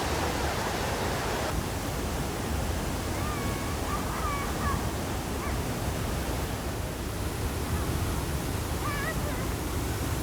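Waterfall: a steady rush of falling water, heard from near its base.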